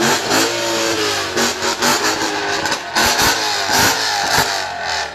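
Supercharged 600 hp BMW M3 V8 being revved in a series of short blips, the engine note rising and falling repeatedly.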